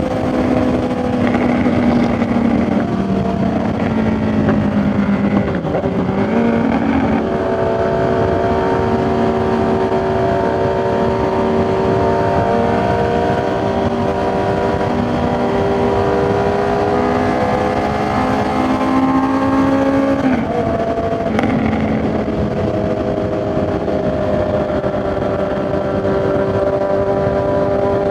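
Honda CB650R's inline-four engine running at a steady cruise, over a constant rush of wind and road noise. Its pitch breaks and resettles briefly about six seconds in and again about twenty seconds in, as with gear changes.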